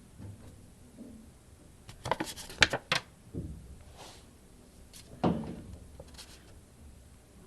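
Paper fluttering and sliding: a burst of sharp rustling about two seconds in, lasting about a second, and a second, shorter rustle about five seconds in.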